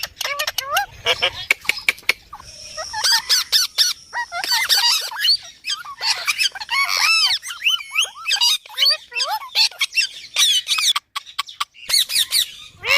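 Indian ringneck parakeet calling: a rapid, dense string of squeaky chirps, whistled glides and squawks, with a brief break about eleven seconds in.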